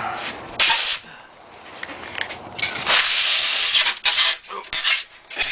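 Foam rubbing and scraping against foam as the cut fluted column is kicked out of its block: a short scrape under a second in, then a longer run of scraping from about two to four seconds, and a few brief ones near the end.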